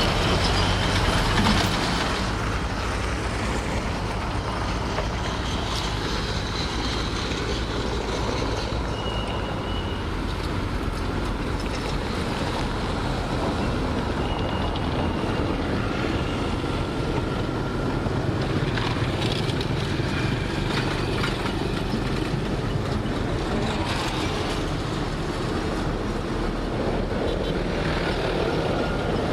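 Heavy earth-moving machinery running steadily, its diesel engine under constant load, with a few brief high-pitched squeals now and then.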